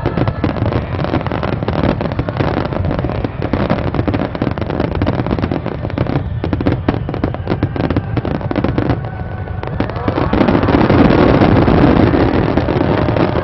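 Fireworks finale barrage: many shell bursts and crackles in quick, overlapping succession over a continuous rumble, growing louder and fuller about ten seconds in.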